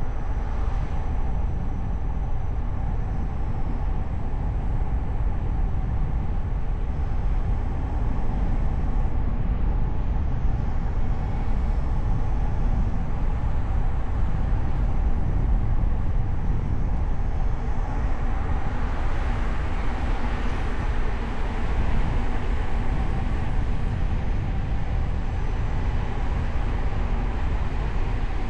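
A car driving: steady rumble of road and tyre noise with the engine running, growing a little brighter and louder with more hiss about eighteen seconds in.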